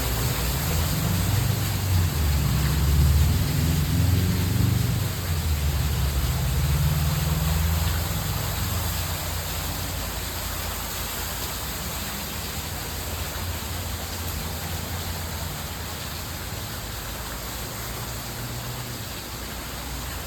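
Steady splashing of falling water in a pond water feature. A low rumble is strongest for the first several seconds, then the sound eases slightly.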